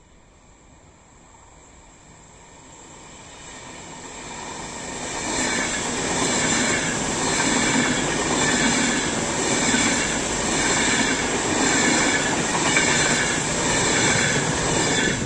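Hellenic Train ETR 470 Pendolino electric tilting train passing close by. It grows steadily louder over the first five seconds as it approaches, then holds a loud rumble of wheels on rail that pulses about once a second as the carriages go by.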